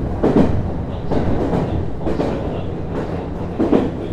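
Interior running sound of a JR East HB-E210 series hybrid diesel railcar: steady low hum and wheel rumble, with irregular clacks from the wheels over the track about a second apart, the strongest near the end.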